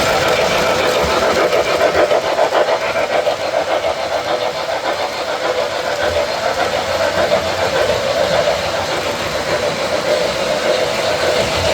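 MTH RailKing O-gauge model steam locomotives running on a layout: a steady rolling, motor-driven running noise with no clear beat.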